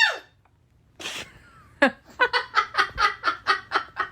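A parrot's scream cuts off at the start. After a pause, a quick run of about ten short laughing 'ha' calls follows, roughly four a second: the parrot imitating laughter.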